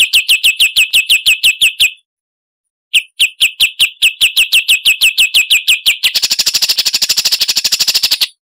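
Recorded songbird song: a fast run of sharp down-slurred chip notes, about nine a second. It breaks off for about a second near the two-second mark, resumes, and near the end turns into a dense buzzy trill that stops abruptly.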